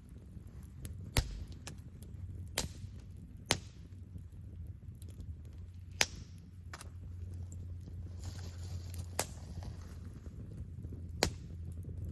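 Wood campfire crackling, with about six sharp, irregular pops from the burning wood over a low, steady background noise.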